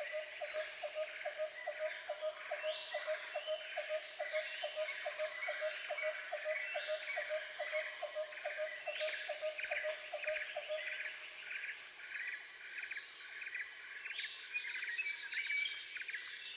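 A chorus of birds and insects: many short bird chirps over a steady, high insect buzz. A regular piping note repeats about two and a half times a second and stops about two-thirds of the way through.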